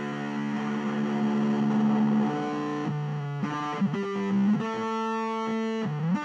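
Electric guitar played through a Boss DS-1 distortion pedal modded for octave fuzz, giving a thick distorted tone. A long held note gives way to changing notes with short slides in pitch, ending on an upward slide.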